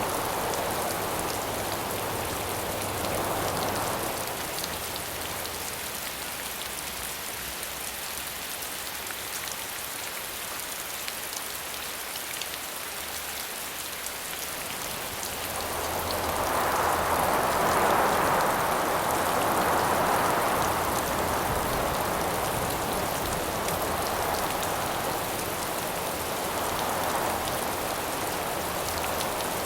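Steady rain falling, with gusts of wind swelling and fading over it. The gusts ease off about four seconds in and surge back loudest a little past the middle.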